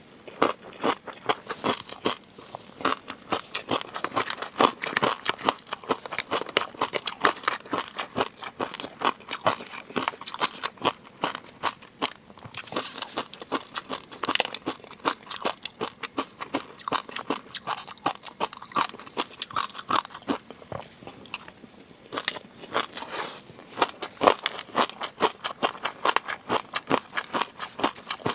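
Close-miked eating of seafood: continuous chewing with dense, irregular crunching and clicking, several sharp pops a second.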